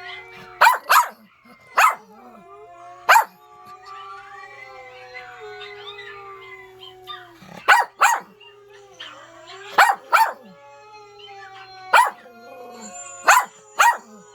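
Dogs howling in long drawn-out tones that shift in pitch, with about eleven loud, sharp barks over them, several coming in quick pairs.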